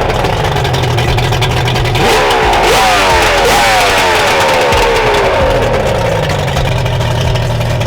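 Race boat's V-block outboard engine running under way, revved up sharply three times between about two and four seconds in, its pitch sliding back down after each. A loud rushing noise of wind and water runs under it.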